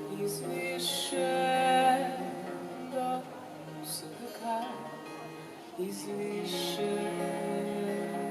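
Live acoustic music: an acoustic guitar played under a singing voice, with sustained sung notes.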